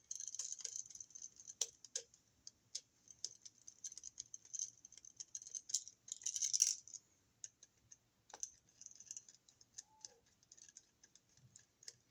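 Screwdriver tightening the unused terminal screws on a new wall receptacle: faint small metallic clicks, ticks and rattles with light scraping, and a louder scrape about six and a half seconds in.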